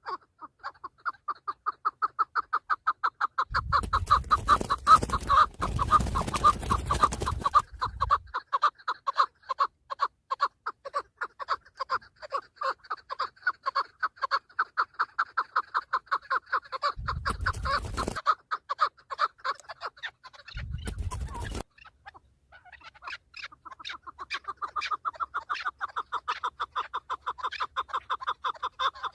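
Chukar partridge calling: a long, rapid run of clucking notes that breaks off about 22 seconds in and then starts again. Short bursts of rumbling noise come about 4 to 8 seconds in and twice around 17 to 21 seconds.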